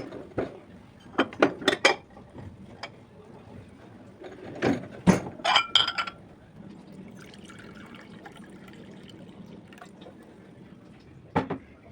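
Glassware clinking and knocking several times, with a short ring, then liquid poured into a glass for a few seconds, and one more clink near the end.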